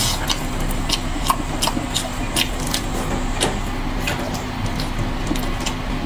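Close-miked eating of a pork knuckle: wet chewing and lip-smacking clicks, about two a second, over a steady low hum.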